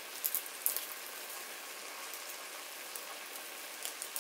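Diced chicken breast sizzling as it browns in oil in a pot: a steady hiss with scattered crackles and pops, a few of them in the first second.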